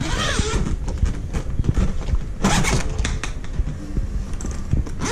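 Handling noise of things being moved and unpacked: irregular clicks, knocks and rustling, with a short, louder rustle about two and a half seconds in, over a low steady rumble.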